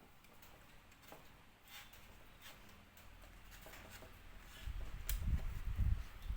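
Light scattered clicks and taps of bird-cage parts being handled and fitted together. A cluster of low thuds and bumps comes in the second half, with one sharp click among them.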